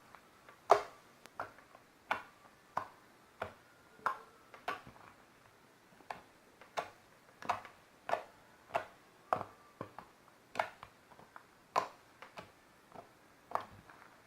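Fluffy slime being kneaded and pressed by hand, giving a series of sharp pops, about one every two-thirds of a second.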